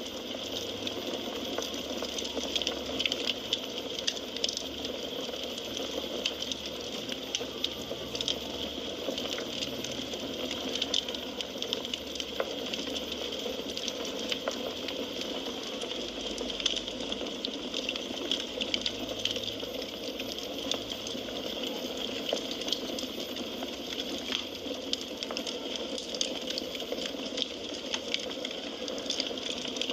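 Burning firewood crackling steadily: a constant hiss dotted with many small, sharp pops and snaps at irregular intervals.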